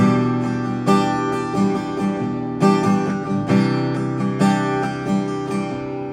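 Martin OMC-1E acoustic guitar played unplugged, its own acoustic sound: chords struck about once a second, each ringing on into the next.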